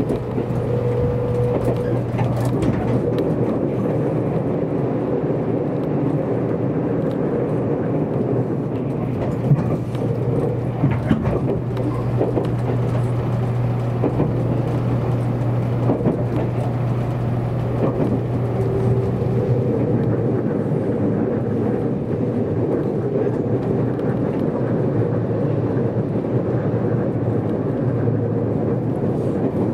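Running noise heard inside the cabin of a JR Kyushu 783 series limited express electric train at speed: a steady rumble of wheels on rail with a constant low hum, and a few brief knocks in the middle.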